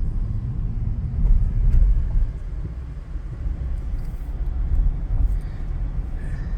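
Low, steady rumble of a moving vehicle, without speech.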